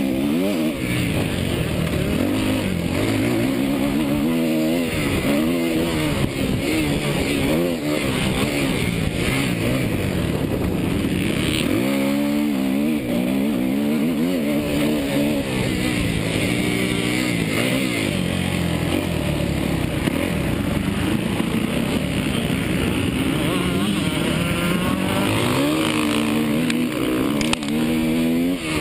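Suzuki motocross bike engine being ridden, its pitch climbing and dropping again and again as the throttle is opened and closed through the gears.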